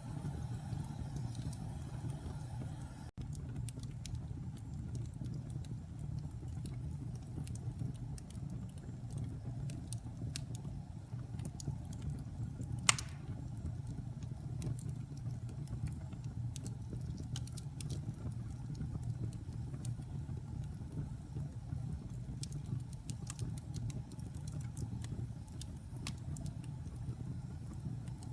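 Wood fire burning in a fireplace: a steady low rumble of flames with scattered crackles, and one sharp, loud pop about halfway through.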